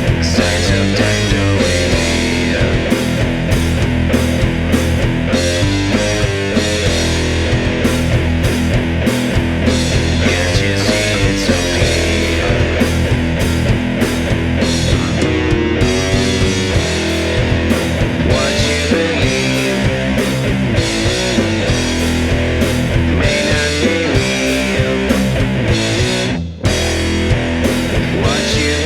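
Heavy doom metal band recording: distorted electric guitars over bass and drums, with a brief break in the sound near the end.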